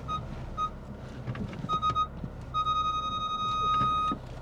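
Electronic beeper sounding one high tone: a few short beeps, then a long steady beep of about a second and a half that cuts off near the end, over a low steady hum.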